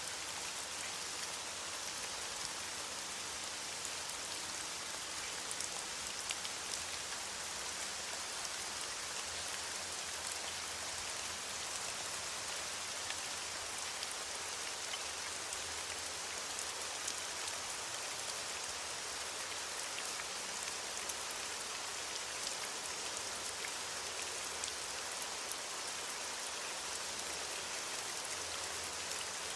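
Steady rain falling on leaves, a dense even patter of drops with many small individual drop ticks.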